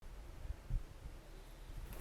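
Faint outdoor background with a few low thumps, the loudest about three quarters of a second in.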